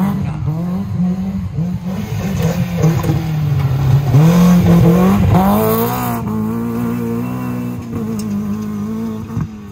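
Modified Suzuki Jimny's engine revving hard under load as it claws up a steep dirt climb, the pitch rising and falling with the throttle, then held steadier and higher over the last few seconds.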